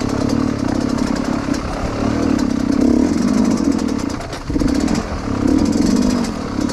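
Dirt bike engine running under throttle on a trail, the engine note holding and wavering with the throttle, dropping off briefly about four seconds in before picking up again.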